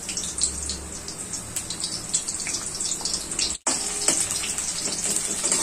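Baby corn sticks frying in hot oil in an iron wok: a steady sizzle with small crackling pops. About three and a half seconds in, the sound cuts out for an instant, then a slotted steel spoon stirs the pieces through the oil.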